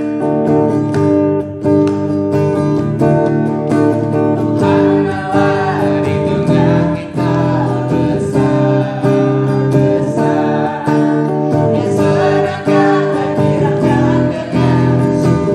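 Acoustic guitar strummed in a steady rhythm, playing a children's worship song.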